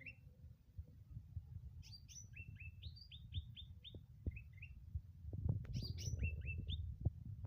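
Cucak ranting songbird singing actively: quick phrases of short, sharp chirping notes, coming in two bursts. A low rumbling handling noise runs underneath and grows louder in the second half.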